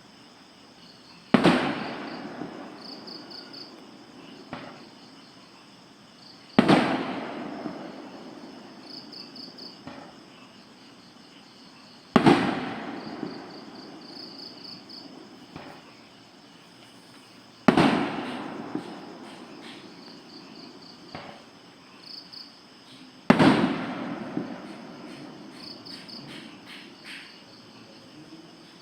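Fireworks going off: five loud bangs about five and a half seconds apart, each trailing off in a long fading rumble. Crickets chirp steadily in the background.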